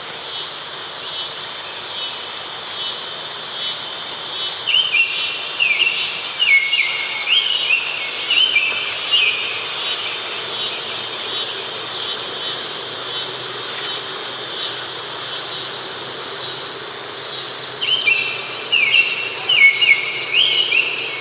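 Forest ambience: a steady chorus of insects, with a bird singing short repeated phrases of rising and falling notes from about five to nine seconds in and again near the end.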